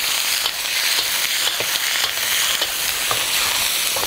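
Chicken pieces frying in hot oil in a karahi over a high flame: a steady sizzle, with a few short taps against the pan.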